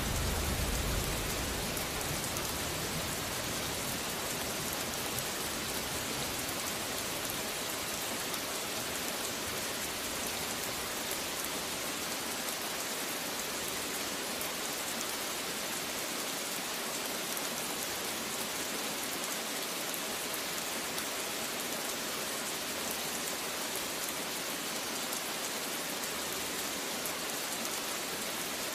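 Steady rain falling, an even hiss with no breaks. A low thunder rumble dies away in the first couple of seconds.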